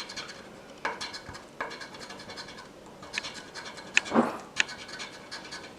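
Scratch-off lottery ticket being scratched in repeated short strokes, with a few sharper, louder scrapes about four seconds in.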